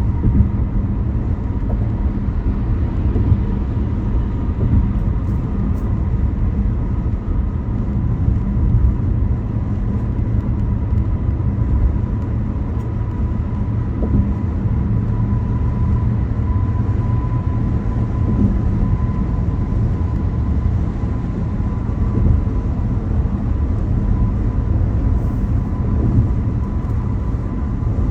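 Steady road noise from a car being driven: a continuous low rumble of tyres and engine, with a faint steady whine above it.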